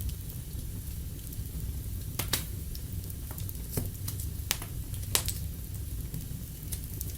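Wood fire in a fireplace crackling, with several sharp pops, the loudest about two and five seconds in, over a steady low rumble of the burning fire.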